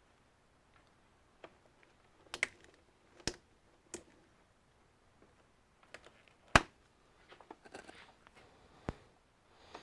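Irregular sharp clicks and taps of tools and plastic and metal computer parts being handled during disassembly, the loudest a single sharp click about six and a half seconds in, with a patch of small rattling ticks after it.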